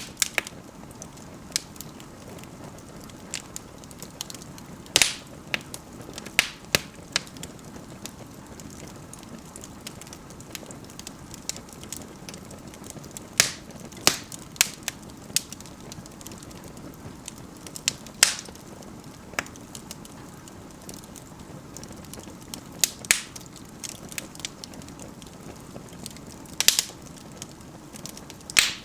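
Wood fire burning in an indoor fireplace: a soft, steady hiss of flame with irregular sharp crackles and pops from the burning wood, a few of them loud.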